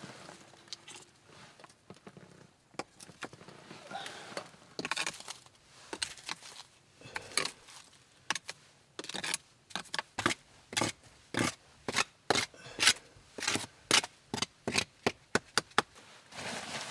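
A series of sharp knocks or cracks, scattered at first, then settling about halfway into a fairly steady run of roughly two a second.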